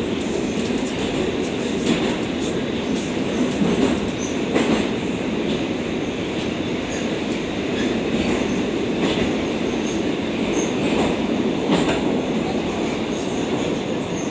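Moscow metro 81-760/761 'Oka' train car running at speed through a tunnel, heard from inside the car: a steady rumble and wheel noise, with a few sharp clacks from the rails now and then.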